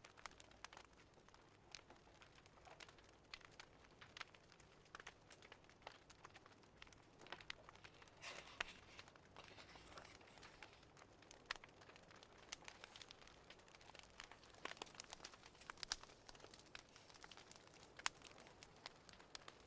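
Faint crackling of a wood fire in a fireplace: irregular pops and snaps over a soft hiss.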